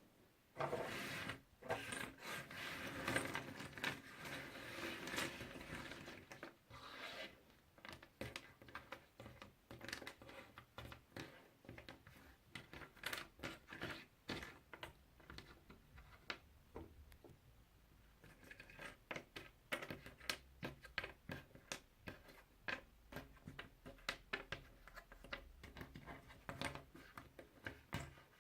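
Puzzle pieces handled close to the microphone: a few seconds of dense rustling near the start, then a long run of small, separate clicks and taps as pieces are picked up and set down.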